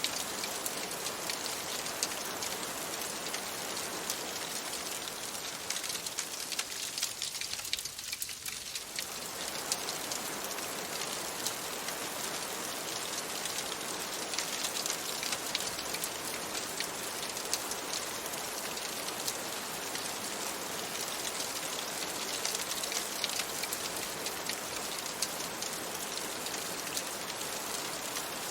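Steady rain pattering on a window, full of fine drop ticks, mixed with a crackling fireplace.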